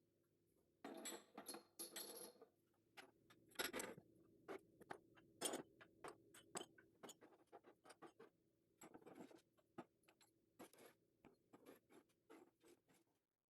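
Kitchen handling sounds: irregular light taps and clicks with a few short scrapes, over a faint steady hum. The sounds stop suddenly near the end.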